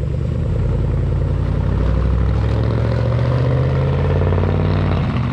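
Pickup truck engine running loud, its exhaust note rising slightly in pitch, then dropping away shortly before the end.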